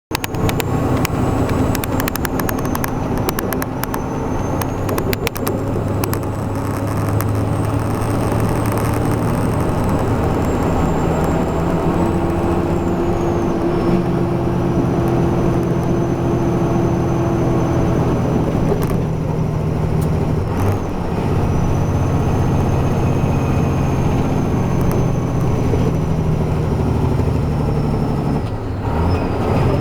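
Heavy truck's diesel engine running steadily while the truck is driven, with road noise, a few light clicks in the first few seconds, and a short drop in loudness and pitch shift near the end.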